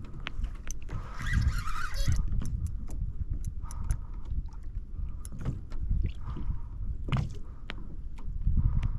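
Water and wind sounds around a fishing kayak, a steady low rumble with scattered short clicks and knocks throughout.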